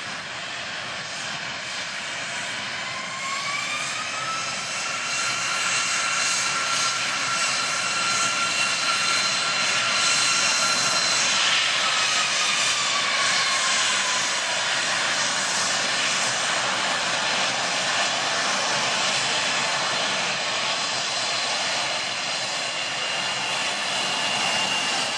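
Boeing 777-300ER's GE90 jet engines at takeoff thrust: a loud rush of jet noise that builds toward the middle, with an engine whine that rises in pitch a few seconds in, holds, then drops in pitch about halfway through as the airliner goes by.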